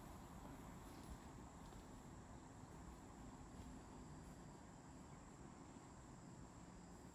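Near silence: faint steady background noise with no distinct events.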